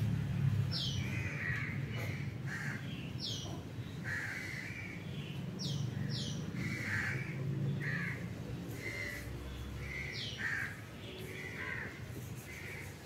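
Birds calling repeatedly, short calls about once a second mixed with a few sharp high falling chirps, over a low steady hum.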